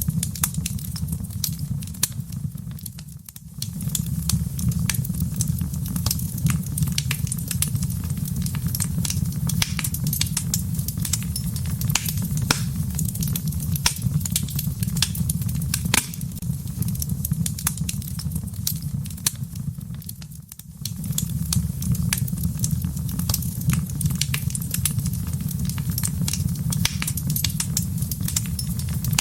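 Wood fire crackling in a fireplace: frequent sharp, irregular pops and snaps over a steady low rumble of burning. The sound dips briefly twice, about three seconds in and again about twenty seconds in.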